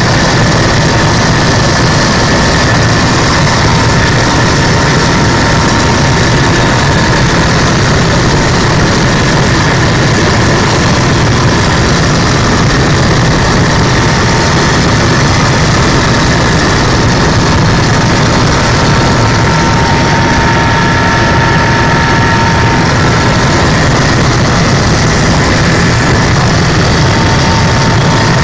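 Helicopter in flight: steady, loud engine and rotor noise that holds constant, with a few faint steady whines above it.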